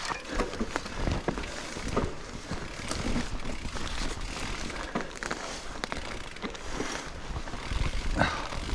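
Mountain bike riding over rough, rocky trail: tyres rumbling on the ground, with irregular knocks and rattles from the bike, and wind rumble on the microphone.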